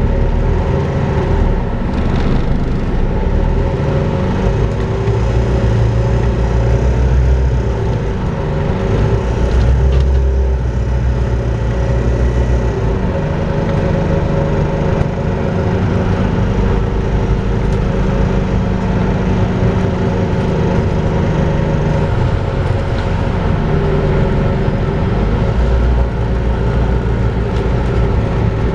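Volvo B5LH hybrid double-decker bus with its four-cylinder diesel running on the move, under a steady whine that enthusiasts call "hoovering" for its vacuum-cleaner sound. The highest part of the whine drops out a little after twenty seconds in.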